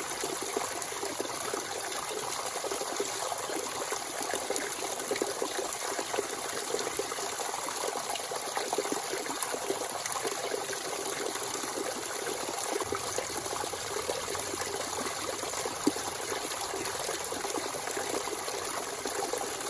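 Natural spring water flowing and trickling steadily, a continuous splashing babble, with one brief tick about sixteen seconds in.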